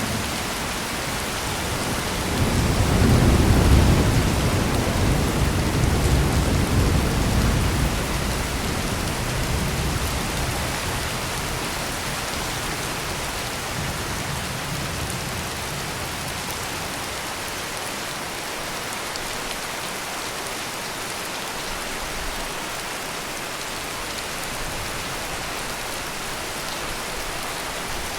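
Heavy rain pouring steadily. A rolling rumble of thunder builds about two seconds in, is loudest a couple of seconds later, and fades away over the next several seconds.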